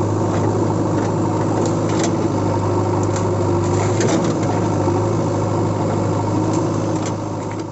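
An engine idling with a steady hum and a few light clicks, fading out near the end.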